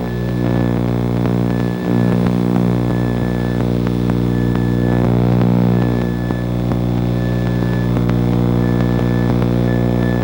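Piper Seneca's two piston engines running steadily at low power, heard from inside the cabin. A faint short high beep repeats about once a second over the engine sound.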